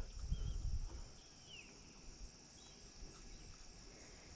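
Faint outdoor ambience: a steady high-pitched insect drone, with a few faint short chirps and a low rumble in the first second.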